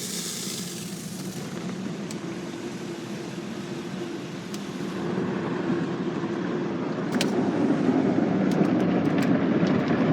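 Automatic car wash running, heard from inside the car: a steady rumbling rush that grows louder about halfway through, with a scatter of sharp taps near the end.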